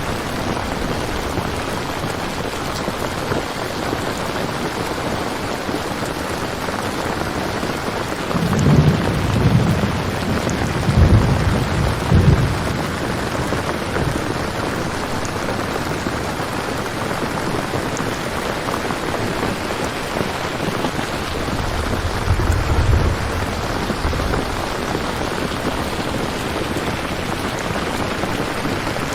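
Steady heavy rainfall with low rolls of thunder, one about a third of the way in and another later on.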